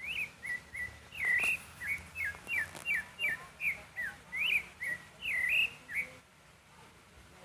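A songbird singing a quick string of short whistled notes, many of them sliding up or down in pitch, for about six seconds before falling silent.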